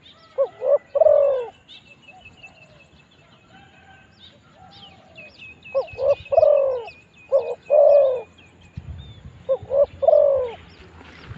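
Spotted dove cooing: four phrases, each of one or two short notes and then a longer coo that falls in pitch. Small birds chirp thinly and high in the background.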